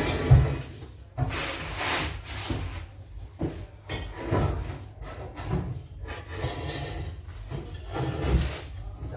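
Irregular knocking, rubbing and scraping, like metal or wooden parts being handled, with a sharp thump about half a second in.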